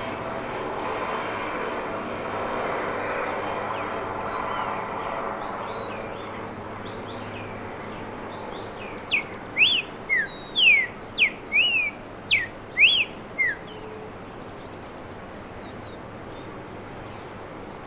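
Streaked saltator singing: a run of about ten short, sharp whistled notes, some sliding up and some sliding down, over about four seconds in the middle. Faint high chirps of other birds sit in the background, and a low steady rumble fills the first few seconds.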